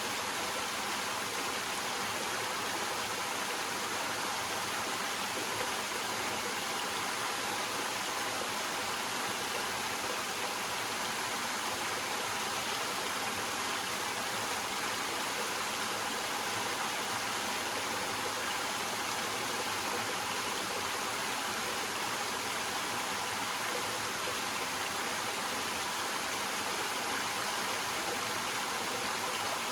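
Small waterfall splashing and running over rocks: a steady, even rush of water.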